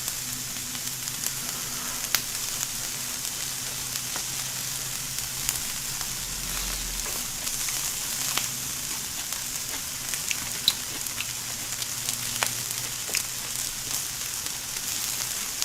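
Vegetables sizzling steadily in oil on an electric tabletop grill, with scattered sharp pops and crackles.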